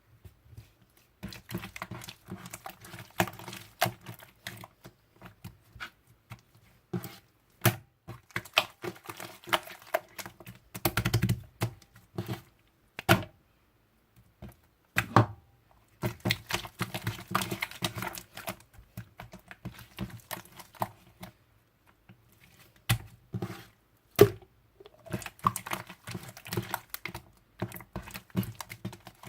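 Irregular bursts of clicking and tapping with a few louder knocks, in clusters broken by short pauses.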